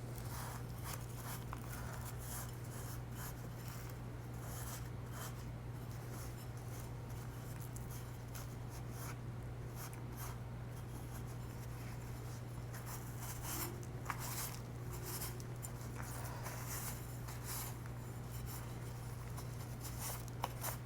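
Light parts being cleaned by hand: soft, irregular rubbing and scratching over a steady low hum.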